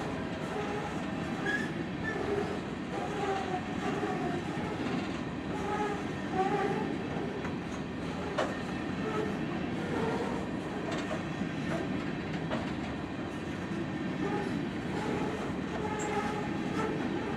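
Coal train's hopper cars rolling past at close range: steel wheels rumbling and clattering over the rail, with short squeals coming and going. A single sharp click about eight and a half seconds in.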